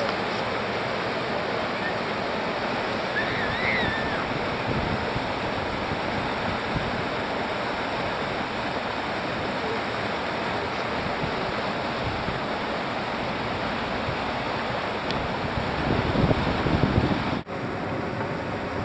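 Steady rush of whitewater river rapids, growing louder for a moment near the end.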